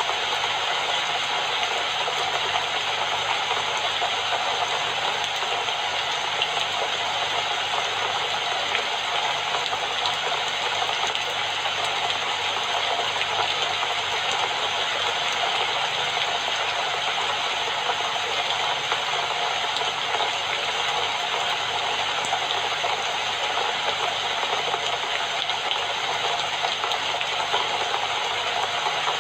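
Steady rain falling, an even hiss with a fine scatter of drop impacts that stays at one level throughout.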